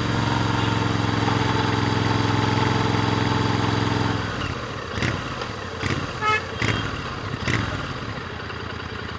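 Royal Enfield Interceptor 650 parallel-twin engine running steadily through its stock exhaust, its note dropping away about four seconds in. A few sharp clicks and a short horn toot follow near the middle.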